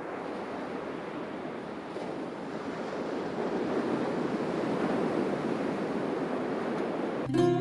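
Sea surf washing in, a steady rushing that slowly swells. An acoustic guitar strums in near the end.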